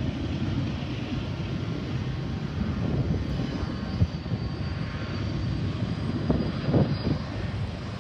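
BNSF freight train rolling past: a steady low rumble, with a few short louder knocks about six to seven seconds in.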